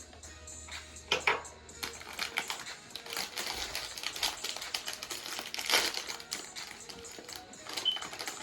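Plastic snack packaging crinkling and crackling as it is handled and opened, with irregular rapid crackles and a couple of sharper snaps, one about a second in and one near the middle.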